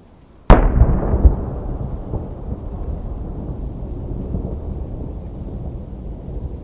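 A large aerial fireworks shell bursts with a sudden loud boom about half a second in, followed by a long, low rumbling echo that slowly fades.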